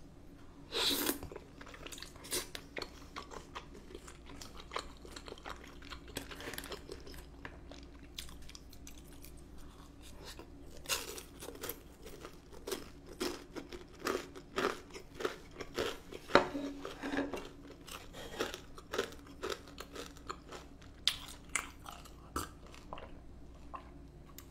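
A person chewing and biting food close to the microphone: many short, irregular mouth clicks and smacks, coming thicker in the second half.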